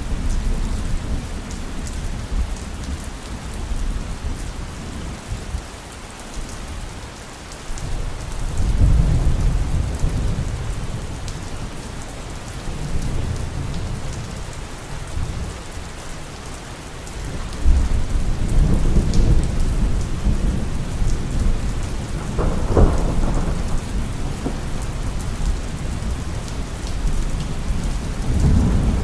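Heavy rain falling steadily, with thunder rolling in several long low rumbles; the loudest rumbling starts a little past halfway, and a sharper thunderclap cracks a few seconds later.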